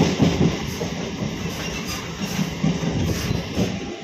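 MMTS suburban electric train running at speed, heard from an open carriage doorway: steel wheels rumble over the rails with irregular knocks and rattles.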